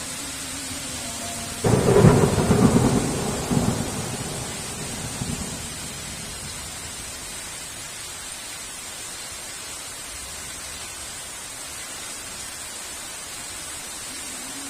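A sudden thunderclap about two seconds in over steady heavy rain. The thunder rumbles and fades away over the next few seconds, leaving the even hiss of the rain.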